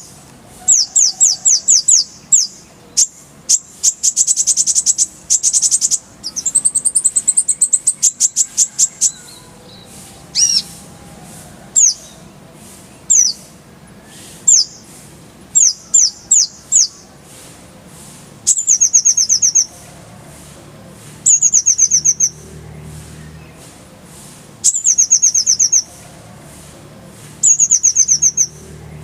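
Kolibri ninja sunbird singing: high, rapid rolls of sharply falling notes, delivered in bursts of one to three seconds with short pauses between them.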